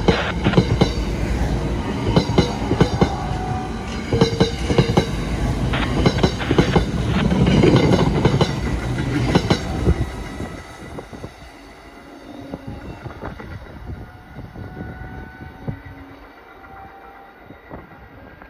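NJ Transit stainless-steel electric multiple-unit train running past close by, its wheels clicking and rumbling on the rails. About ten seconds in the sound drops away sharply as the last car clears, leaving a fainter rumble as the train recedes.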